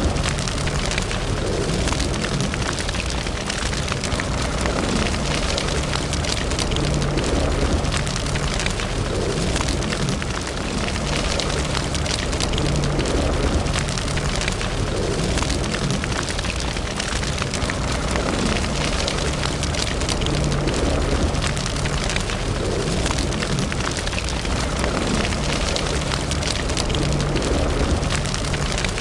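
Wood fire burning in a fireplace: a steady hiss and low rumble of flames with many small crackles and pops throughout.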